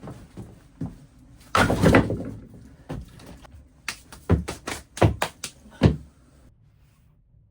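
A series of irregular knocks and thumps, like things being handled and set down, with a longer scraping rustle about a second and a half in and a quick run of knocks near the end before it goes quiet.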